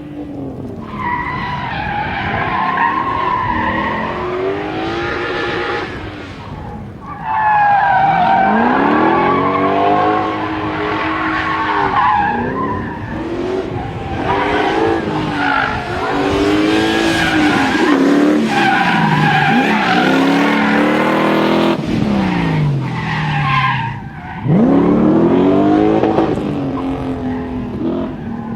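A tuned car's engine revving hard, its pitch climbing and falling again and again, with tyres skidding under power through a drift. The engine lets off briefly about a third of the way in and again near the end before pulling up once more.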